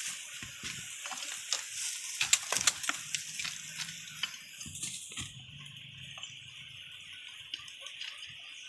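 Dense crackling and snapping for about the first five seconds, then it stops. A steady high chirring of night insects runs underneath throughout.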